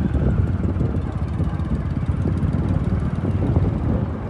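Powertrac 47 tractor engine running steadily, a dense low rumble with a rapid rough clatter.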